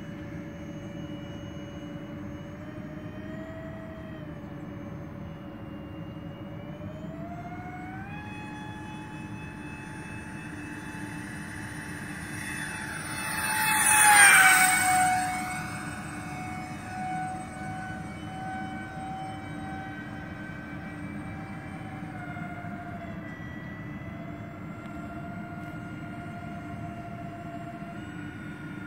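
Twin electric ducted fans of a large RC model airliner whining in flight, stepping up in pitch with throttle about a third of the way in. About halfway through it flies close past: the whine swells to its loudest and drops in pitch as it goes by, then carries on steadily.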